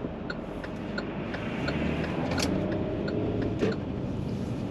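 Turn signal ticking steadily inside a van's cabin, about three clicks a second, over engine and road rumble. Two louder knocks come partway through.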